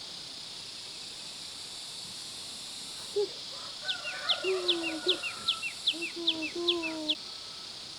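A run of quick, high, falling bird chirps, about three a second, beginning about three seconds in and stopping shortly before the end, with lower calls mixed in, over a steady high insect drone.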